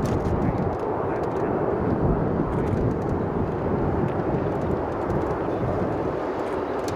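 Boeing 777-300 airliner's jet engines, a steady deep rumble, mixed with strong wind on the microphone.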